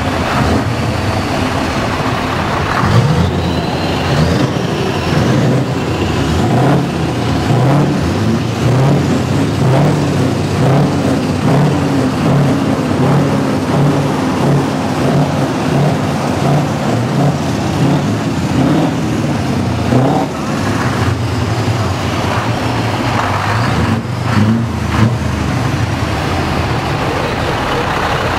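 Heavy Scania truck engines running loudly, their deep engine note wavering up and down as they are revved and driven.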